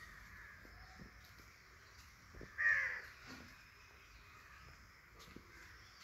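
A bird calls once, loudly, about halfway through, a short call that falls slightly in pitch, over a faint steady background hiss.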